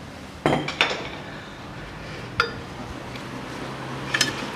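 Metal parts and tools clinking and knocking as they are handled and set down: four ringing metallic knocks, the first two close together about half a second in and the last near the end.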